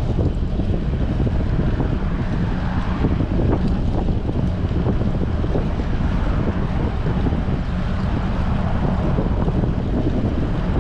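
Strong wind buffeting the microphone of a bicycle-mounted action camera while riding, giving a steady low rumble.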